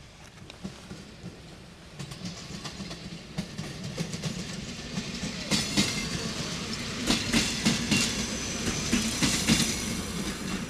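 Two-car diesel railcar passing close by over a set of points: a low engine drone with the clack of wheels over rail joints, growing louder about two seconds in and loudest in the second half.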